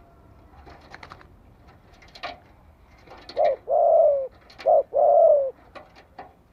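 Spotted dove cooing: two phrases about halfway through, each a short note followed by a longer coo that falls slightly in pitch.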